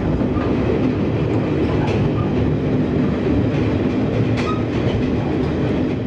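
Passenger coach of a steam excursion train rolling along the track, heard from a coach window: a steady, loud running noise of wheels on the rails with a few faint clicks.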